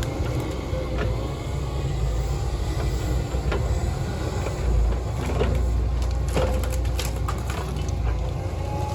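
A heavy diesel machine's engine running steadily, with a faint whine and scattered sharp knocks and cracks, several of them in the second half.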